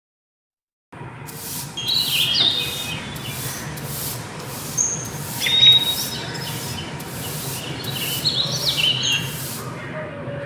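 Rhythmic rubbing or scraping strokes, about two a second, over several seconds, with birds chirping in the background. It begins suddenly about a second in, after a moment of silence.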